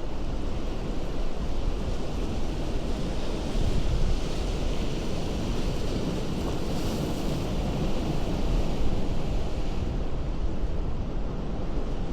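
Ocean surf breaking against a rocky shore: a continuous rushing wash over a deep rumble, swelling in the middle as a wave comes in and then easing.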